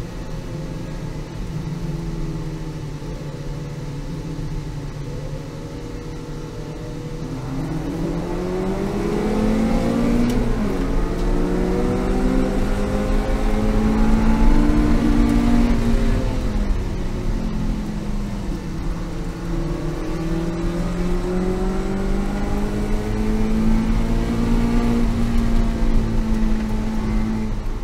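Race car engine heard from inside the cockpit. It runs steadily at first, then revs up hard from about seven seconds in as the car accelerates from the race start, with an upshift partway through. The pitch dips around sixteen seconds as the throttle eases, then climbs again toward the end.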